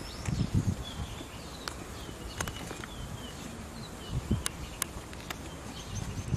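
Small birds chirping outdoors in short, repeated calls, with a few sharp clicks. The loudest sounds are low thumps, about half a second in, again past the middle and near the end.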